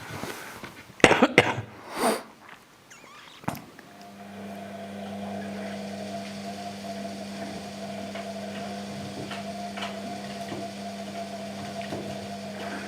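Washing machine motor paused, with several sharp knocks and a brief swell of noise, then the motor starts up again about four seconds in and runs with a steady hum.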